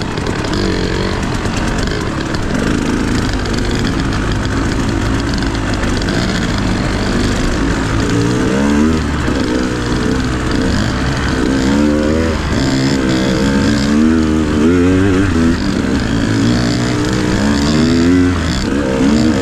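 Dirt bike engine running while riding, its revs rising and falling again and again as the throttle is worked, with a constant rushing noise underneath.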